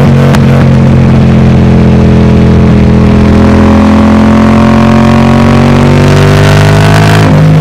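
Yamaha MT-07 parallel-twin engine running through a MIVV Delta Race full exhaust, loud. From about halfway the pitch rises steadily as the engine revs up under acceleration.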